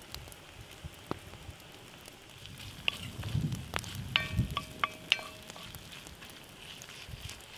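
Green onion and crumbled dumpling filling sizzling in oil in a cast iron skillet over a wood gas stove, with the fire crackling. From about three seconds in, a wooden spoon stirs, scraping and knocking against the pan, and there is a short squeak about halfway through.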